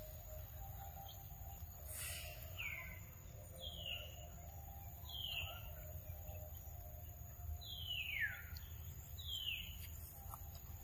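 A forest bird calling: five clear whistles, each sliding down in pitch, spaced a second or so apart from about two and a half seconds in, the fourth one longer and dropping further than the rest. A steady low rumble lies under them.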